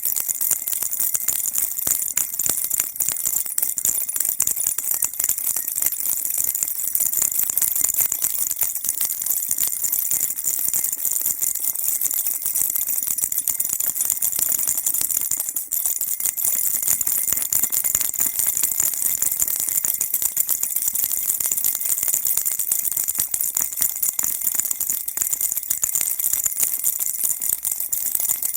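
Baby rattle shaken continuously, giving an unbroken, dense, bright jingling rattle that stays even throughout, used as calming white noise for a baby.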